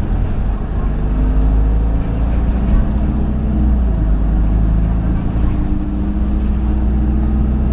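Isuzu Erga city bus's turbo-diesel engine under way, heard from inside the cabin with a steady low drone. The engine note climbs, falls about four seconds in, and then climbs again.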